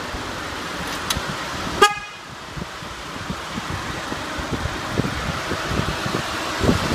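A 2004 Mitsubishi Galant's four-cylinder MIVEC engine idling steadily. About two seconds in, a click comes just before a brief high-pitched toot.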